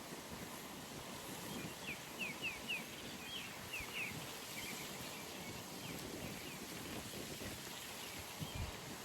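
A bird sings a quick run of short, falling chirps about two seconds in, with a few fainter chirps after, over steady background noise. A single low thump comes near the end.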